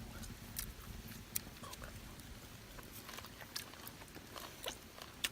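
Faint chewing with scattered small clicks and taps as people eat.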